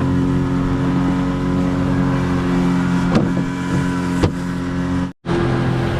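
Boat engine, likely the fishing boat's outboard motor, running steadily under way at an even speed, with a couple of faint knocks and a brief cut-out near the end.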